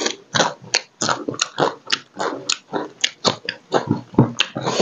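Close-miked chewing and biting of crab curry with rice: an irregular run of short, wet clicking and crunching mouth sounds, several a second.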